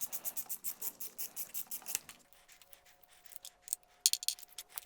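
Quick, even series of scratchy strokes from hand tool work on the engine, about eight a second for some two seconds, then a few light clicks and taps near the end.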